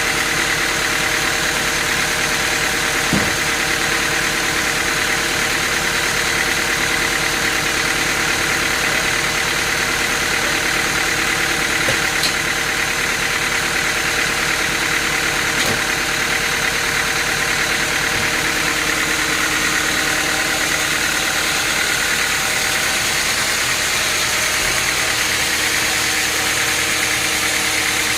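Sawmill machinery running steadily on its engine, a constant drone that holds one pitch throughout, with a few faint ticks.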